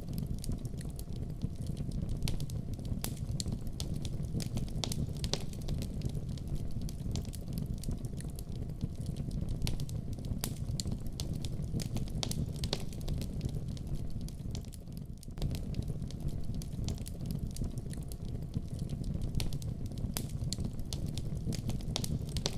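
Fireplace fire crackling, with frequent sharp pops and snaps over a steady low rumble. There is a brief lull about fifteen seconds in.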